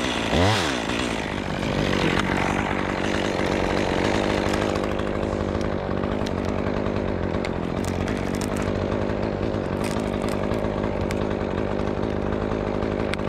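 Stihl chainsaw revved in a couple of quick throttle blips, its pitch rising and falling, then held at full throttle with a steady high engine note as it cuts through oak.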